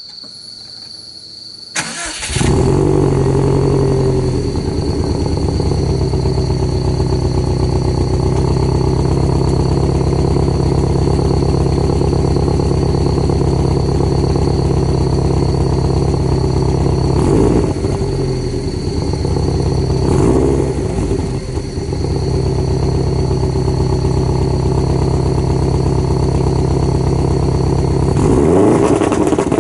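Subaru Impreza S202's turbocharged flat-four starts about two seconds in through its stock titanium exhaust, flares briefly, then settles to a steady idle with a steady high whine over it. Short throttle blips rise and fall about two-thirds of the way through, again a few seconds later, and near the end.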